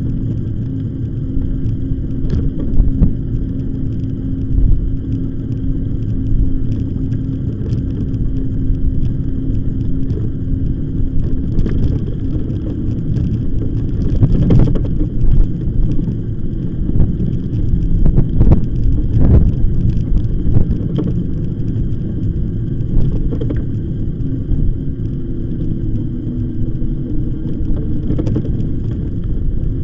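Riding an e-bike: wind rumble on the microphone and tyre noise on the path, with a steady hum in the first half and scattered knocks and rattles from bumps.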